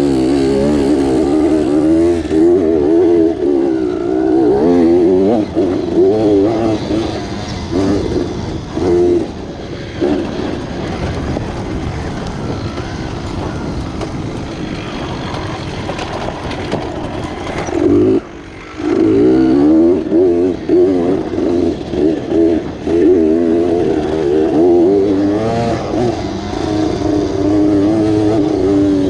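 Dirt bike engine ridden on a trail, its pitch rising and falling constantly as the throttle is worked. It runs steadier and quieter for a while in the middle, and the throttle briefly cuts off about two-thirds through.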